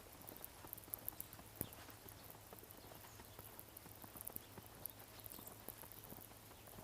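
Faint, irregular crunching and ticking of snow underfoot or under a snout, a scatter of small soft clicks with no steady rhythm, over a low steady hum.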